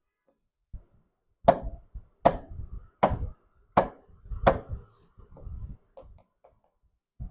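Toys being handled: five sharp taps or clicks, evenly spaced about three-quarters of a second apart, then a few fainter clicks.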